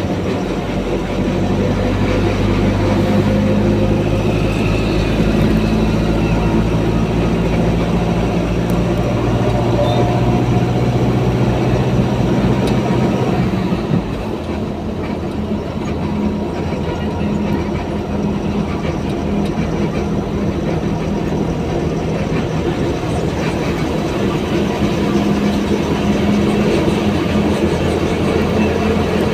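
Heavy vehicle running with a steady, low engine drone over road or rail noise; the drone shifts and drops a little about halfway through.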